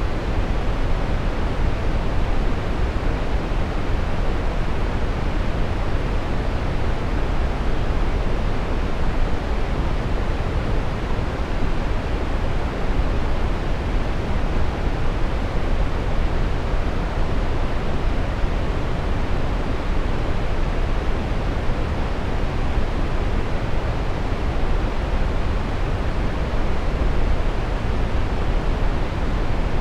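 Steady brown noise: an even, deep rushing hiss, strongest in the bass and falling off toward the treble, with no change or events.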